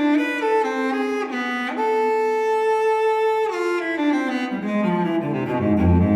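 Background music played on bowed strings: a melody moves through quick notes, holds one long note, then slides down into low cello and double-bass notes near the end.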